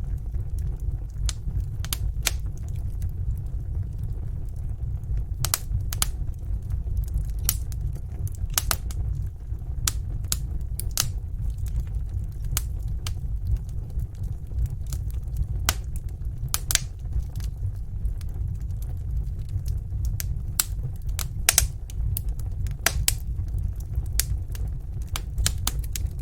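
Wood fire crackling: irregular sharp pops and snaps, some louder than others, over a steady low rumble of the flames.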